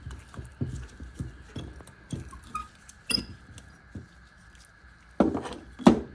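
Light metallic clinks and knocks of brake parts and tools being handled, with two louder clanks near the end.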